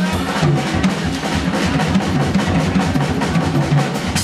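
Jazz drum kit played fast and busily, a dense stream of strokes with low drum tones and cymbals throughout.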